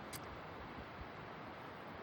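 Faint steady hiss of background noise, with one brief click shortly after the start.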